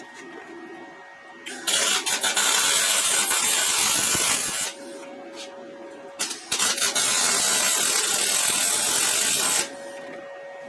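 YesWelder MP200 arc welding steel railroad spikes: two welds of about three seconds each, a dense crackling hiss starting about one and a half seconds in and again about six and a half seconds in, with a steady hum in the pause between them.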